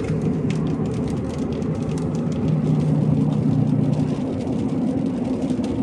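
Pickup truck's engine and road noise heard from inside the cab while driving: a steady low drone.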